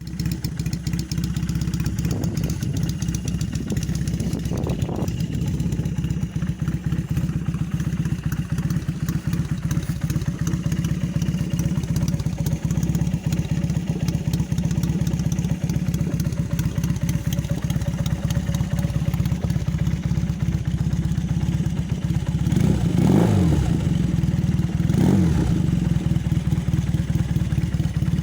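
Honda CM400's air-cooled parallel-twin engine idling steadily after a cold start, with two short throttle blips near the end.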